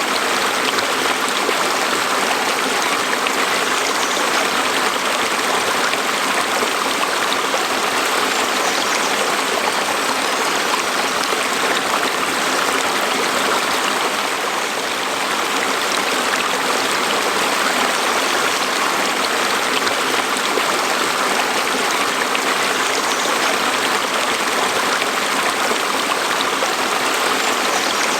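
A stream flowing and splashing over rocks: a steady, unbroken rush of water.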